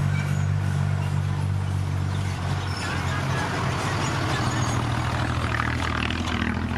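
Heavy diesel engine of earthmoving machinery running steadily, its note shifting about two and a half seconds in.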